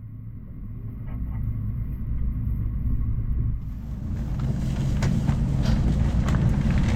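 N700-series Shinkansen running noise heard from inside the car: a low rumble that grows steadily louder as the train pulls away and gathers speed. About three and a half seconds in, a wider rushing noise with light clatter joins it.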